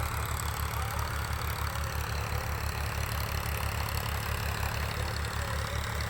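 An engine running steadily at constant speed, with a regular low pulse of about six to seven beats a second.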